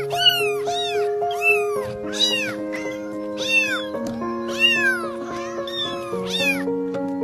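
A kitten meowing again and again, about a dozen high cries, each rising and then falling in pitch, with a short lull around the middle. Slow music with long held chords plays underneath.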